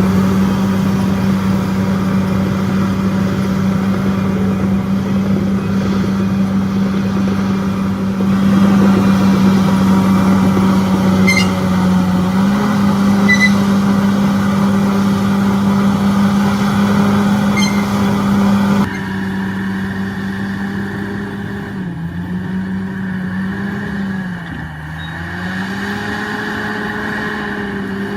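Heavy earthmoving machine's diesel engine running at high, steady revs. Its pitch rises slightly about halfway through, then sags briefly several times near the end, with a few faint clicks along the way.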